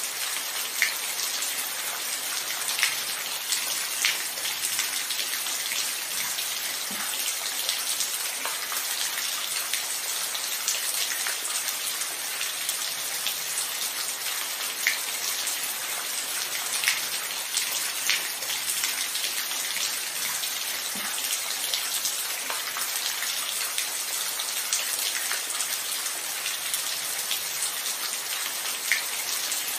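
Steady rainfall, an even hiss with individual drops ticking sharply here and there.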